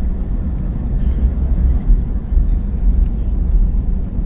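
Cabin noise of an Airbus A321neo rolling on the ground: a loud, continuous low rumble of the engines and wheels, bumping unevenly.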